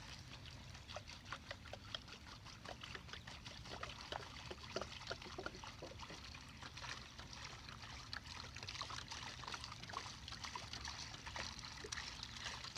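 Water poured from a gallon jug into a makeshift rain catcher, trickling and splashing steadily with many small drips and pops.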